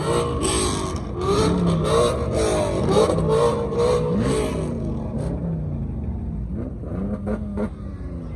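Car engine revved hard over and over, its pitch rising and falling about twice a second, then easing off to a lower, steadier run about five seconds in.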